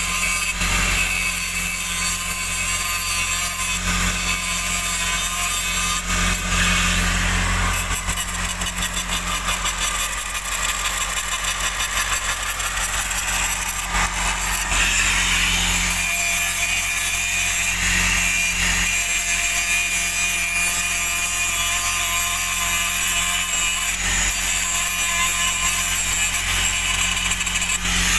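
Grinder grinding down the root weld pass on a 46-inch steel pipe repair: a steady motor hum under the rasp of the abrasive disc on the weld metal.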